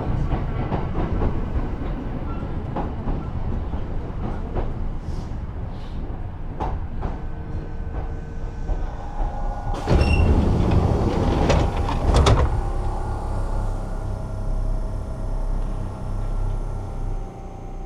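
Kintetsu Suzuka Line commuter train running and easing off as it slows. About ten seconds in there are two seconds of loud clunks and rushing noise, typical of the train's sliding doors opening, followed by a steady hum as the train stands.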